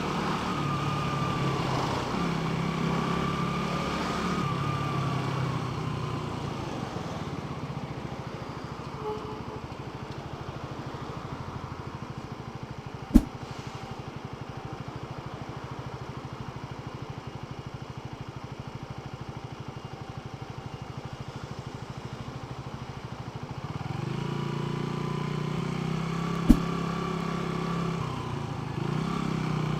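Motorcycle engine running on the move, louder with pitch changes in the first few seconds and again from about 24 s in, quieter and steady in between. Two sharp clicks, about 13 and 26 seconds in.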